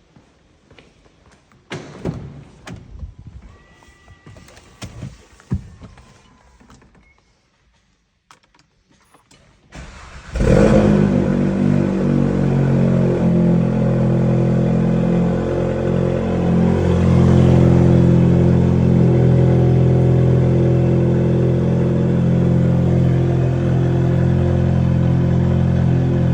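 A few scattered clicks and knocks, then about ten seconds in the Volkswagen Golf GTI TCR's turbocharged 2.0-litre four-cylinder cranks and fires on a cold start with a brief flare. It settles into a steady cold-start idle.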